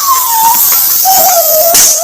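An electronically distorted, pitch-shifted voice-like wail in slow gliding tones, one falling tone and then a wavering lower one, over a loud high hiss.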